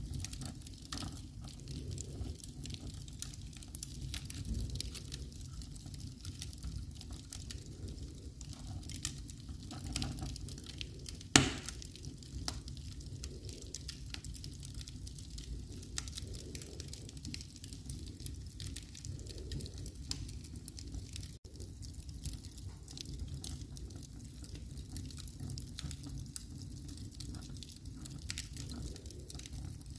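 Wood fire burning in a fireplace, with a low steady rumble and irregular small crackles, and one loud pop about eleven seconds in.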